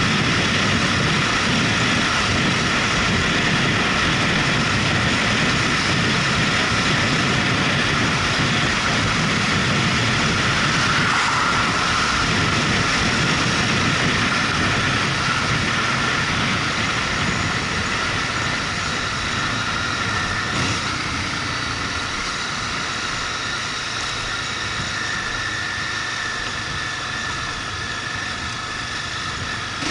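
Motorcycle under way, its engine running steadily with road and wind noise, easing slightly in the second half.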